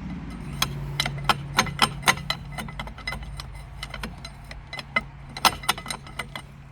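Metal hand tools clicking and clinking on the excavator's sprocket bolts: sharp, irregular metallic clicks, two to four a second, over a steady low hum that starts about half a second in.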